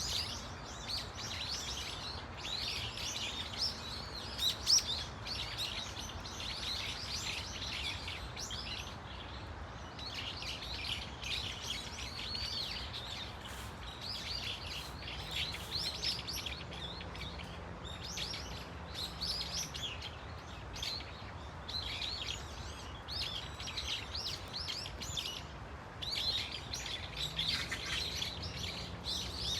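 A flock of brown-eared bulbuls calling over one another in a continuous, dense stream of high-pitched chattering calls, over a steady low background hum.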